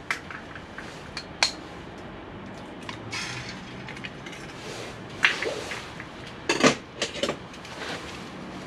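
Metal camping cookware clinking and knocking as pans and pots are handled on a wood stove's top. A few separate sharp knocks, the loudest a cluster about six and a half to seven seconds in.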